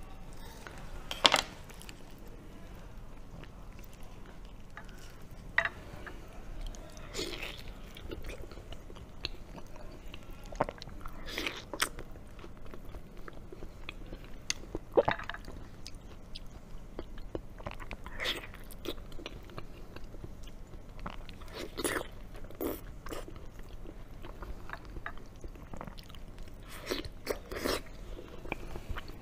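Close-miked chewing and mouth sounds of eating slices of raw Atlantic bluefin tuna belly, with scattered short wet smacks and clicks.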